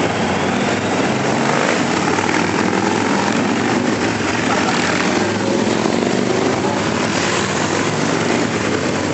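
A steady stream of motorcycles riding past, their engines merging into one continuous din.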